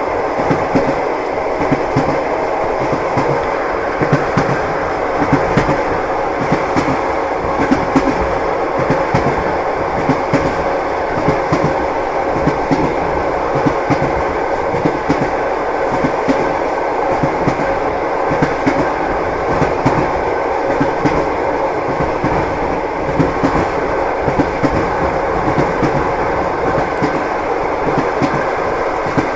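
Passenger train running steadily, its wheels clacking over rail joints with a continuous rumble.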